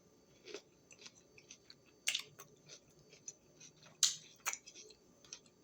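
Close-up chewing of a crunchy raw green bell pepper snack, with irregular sharp crunches, the loudest about two and four seconds in.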